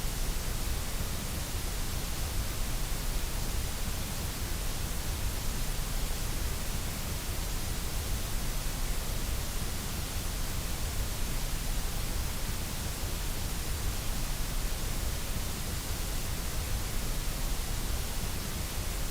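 Continuous white noise: a steady, even hiss that does not change.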